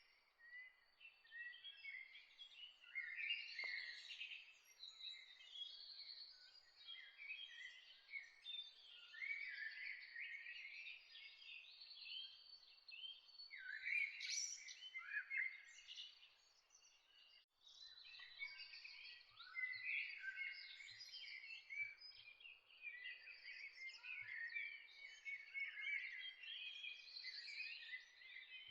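A chorus of many songbirds chirping and singing at once, short overlapping chirps and quick sweeping notes, with a brief dip about two-thirds of the way through.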